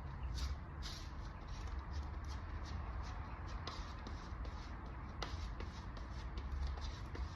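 Body filler and hardener being mixed with a spreader on a mixing board: a run of short, irregular scrapes and smears. The filler is being worked until the pink hardener streaks are gone. A steady low hum runs underneath.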